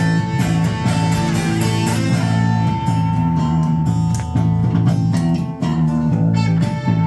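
A live band plays an instrumental passage: guitars over bass guitar, with no singing.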